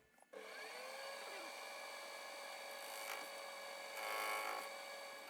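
Metal lathe starting up, its motor spinning up with a rising whine over the first second and then running steadily, a little louder about four seconds in.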